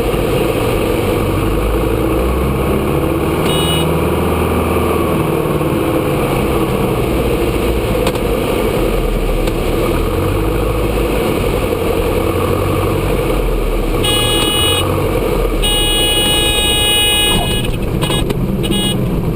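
Inside the cabin of a Grumman AA-5A Cheetah, its four-cylinder Lycoming engine and the wind noise run steadily. The stall warning horn sounds briefly about three seconds in, then twice more for a second or two each near the end, as the aircraft is flared for landing. A few short knocks follow near the very end.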